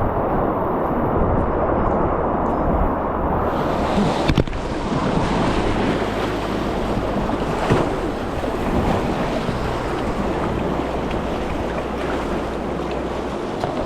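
Rushing river water with wind buffeting the microphone, a steady wash. A short knock about four seconds in, after which the wash sounds brighter.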